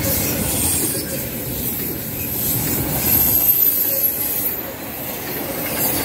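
Freight cars of an intermodal train rolling past close by, steel wheels running on the rails with a steady rumble. A thin high wheel squeal rises over it about three seconds in.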